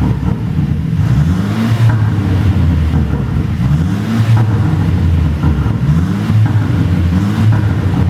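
Mercedes-Benz SLC250's turbocharged four-cylinder engine being blipped repeatedly, its exhaust note rising in pitch about every two seconds. Faint pops follow some blips, from a tune that makes the exhaust pop and crackle.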